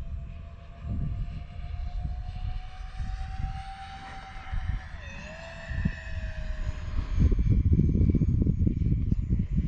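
Whine of the E-flite A-10's 64 mm electric ducted fans in flight. The pitch creeps up, dips sharply about five seconds in as the throttle changes, then recovers and eases off. A gusty low rumble of wind on the microphone runs underneath and grows louder in the second half.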